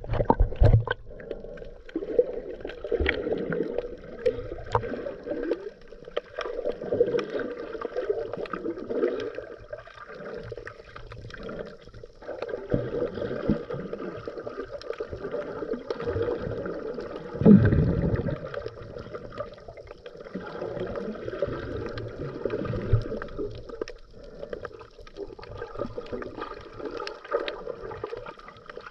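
Underwater sound of a scuba diver's breathing: regulator breaths and exhaled bubbles gurgling in irregular swells, muffled through the GoPro's waterproof housing, with one louder low burst about two-thirds of the way through.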